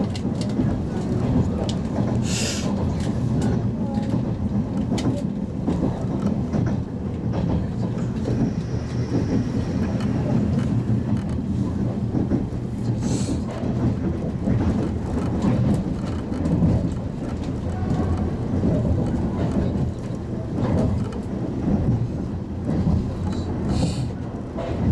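Inside a Toyama Chitetsu 10030 series electric train, the former Keihan 3000 series, running at speed: a steady low rumble of wheels and running gear. Brief rushes of higher noise come about two seconds in, halfway through, and near the end.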